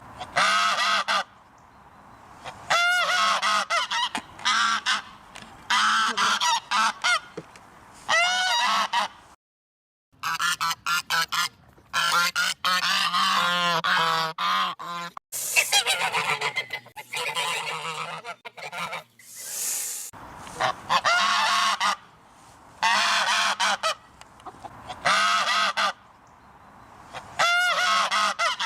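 Geese honking loudly in repeated bursts of calls. There is a brief break about a third of the way in, then a quick run of short honks around the middle.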